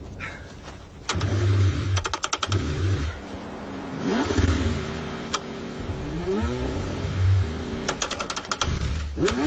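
Car engine cranked in several short bursts, struggling and failing to start in the freezing cold, with runs of rapid clicking twice.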